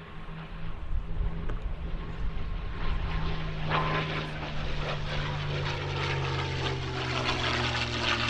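A P-51 Mustang's Packard Merlin V-12 engine, throttled back on landing, its pitch sinking slowly. It grows much louder about a second in, and a rough rushing crackle builds from about three seconds in.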